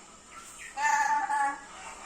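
Pet parrot calling in a high voice, one level-pitched call of well under a second starting nearly a second in.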